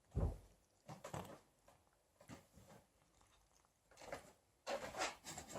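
A cat biting and chewing an olive: faint, irregular clicks of chewing, loudest just after the start and bunched together again near the end.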